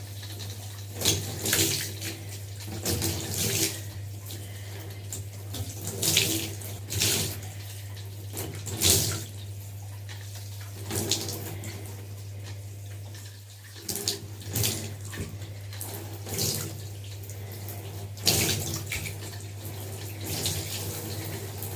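Running tap water splashing through long hair as conditioner is rinsed out, with louder splashes every second or two as the hands work the water through.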